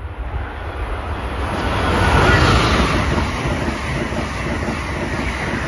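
Amtrak Acela high-speed train running through the station without stopping: a rush of wheels on rail and air that builds to its loudest about two seconds in, holds, and begins to fade near the end. Wind rumbles on the microphone throughout.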